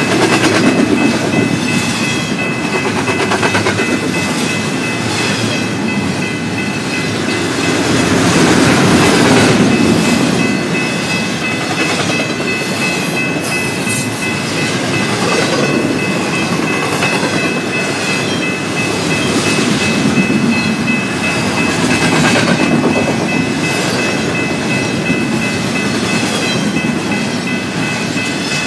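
Double-stack container well cars of a freight train rolling past: a steady, loud rumble with wheels clicking over the rails, swelling and easing as groups of cars pass. Two steady high-pitched tones run underneath throughout.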